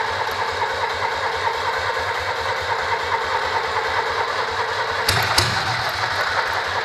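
Citroën Acadiane's 602 cc air-cooled flat-twin engine idling steadily with an even beat, running again after twenty years laid up. Two sharp clicks about five seconds in.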